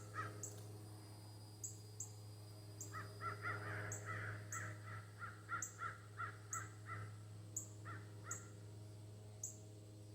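Crows cawing in quick runs of short calls: a long run about three seconds in and a brief one near the end.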